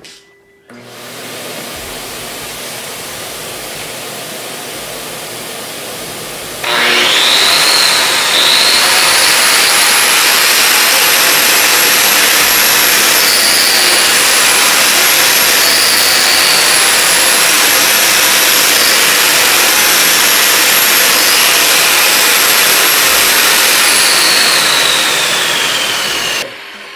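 A 7-inch grinder in a prototype flush-cut frame starts about a quarter of the way in with a rising whine, runs at a steady high whine while grinding down a concrete patch, then winds down with a falling whine near the end. Before it starts, a steadier, quieter noise is heard.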